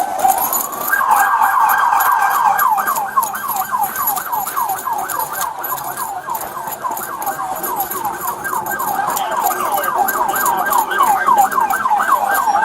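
Police car siren on yelp: a short rising wail at the start, then a rapid falling sweep repeated about four times a second.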